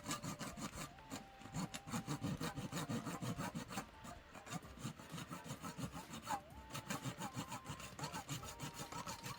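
A razor saw cutting through the plastic wrist of an action figure, in quick, even back-and-forth strokes at about four a second.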